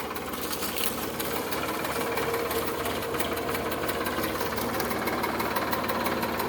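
Sonalika DI 745 tractor's diesel engine running with a fast, steady knocking clatter.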